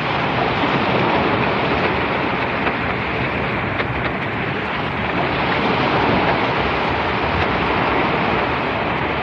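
Steady rushing noise of sea surf and wind, even and unbroken, with no distinct events.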